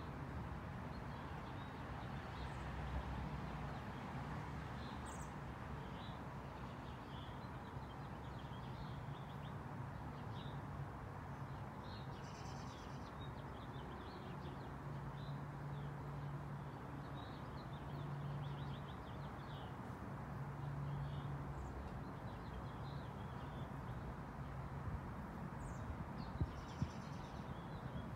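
Small birds chirping in short, scattered calls over a steady low background hum, with two sharp clicks near the end.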